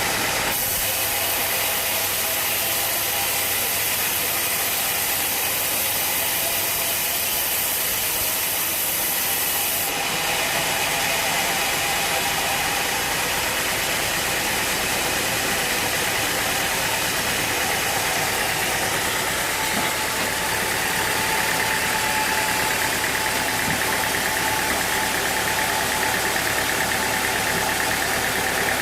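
Sawmill machinery running steadily, an engine-like drone with hiss; a higher hiss starts just after the beginning and stops about ten seconds in.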